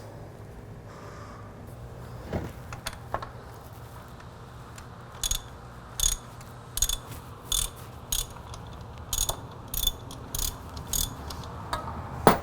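A ratchet wrench being worked in strokes: starting about five seconds in, sharp metallic clicks come at an even pace, roughly one stroke every three-quarters of a second. A steady low hum runs underneath, and a couple of knocks come earlier.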